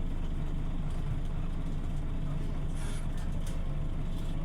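Scania OmniLink CL94UB city bus running with a steady low drone and a faint steady whine, with a few light clicks about three seconds in.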